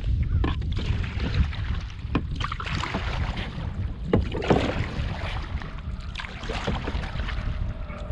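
Wind buffeting the microphone in a steady low rumble, with irregular splashes of water around a canoe.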